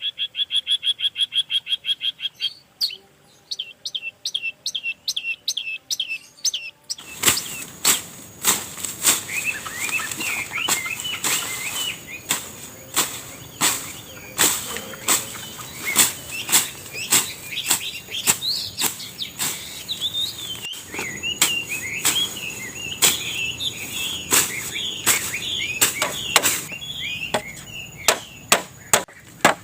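Birds calling: first a rapid string of identical chirps, then slower single chirps. About seven seconds in, a run of sharp knocks starts, one or two a second, with warbling birdsong and a steady high insect whine behind it.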